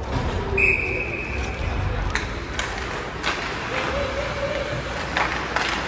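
Ice hockey game ambience: a whistle blows for just over a second, then sharp clacks of sticks and puck scattered through the rest, over a background of voices.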